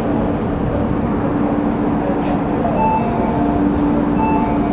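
MTR East Rail Line Metro-Cammell electric multiple unit running into the station: a loud, steady rumble with a steady low hum and a few brief higher tones in the second half.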